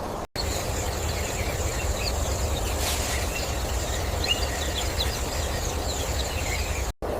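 Nature ambience: a steady low rumble with scattered faint, short bird-like chirps over it. It starts abruptly a moment in and cuts off just before the end.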